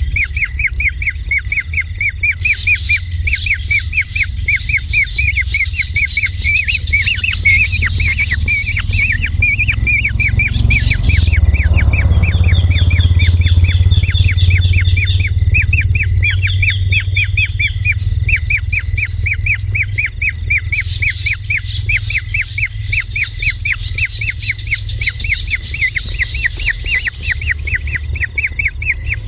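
A kingfisher calling: a fast, unbroken run of short, sharp repeated notes, about six a second. Under it is a steady high insect drone and a low rumble that swells in the middle.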